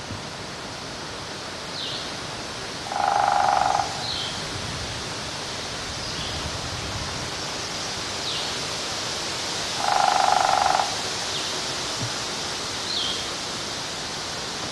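Downy woodpecker sounds over a steady outdoor hiss: short high falling notes every two seconds or so, and twice a louder rapid roll lasting under a second.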